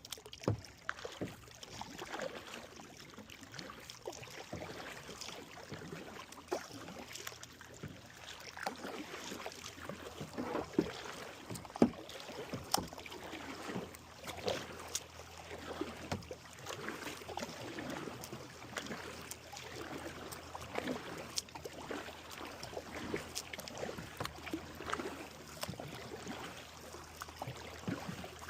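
Kayak paddling: paddle blades dipping and splashing in the water, with drips running off them between strokes. A sharp knock stands out about twelve seconds in.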